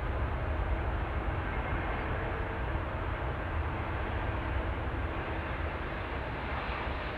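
Jet aircraft engines running with a steady low rumble and a faint steady whine.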